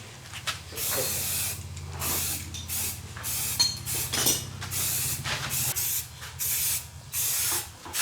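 Spray nozzle hissing in repeated short bursts, about one a second, over a low steady hum that fades out near the end.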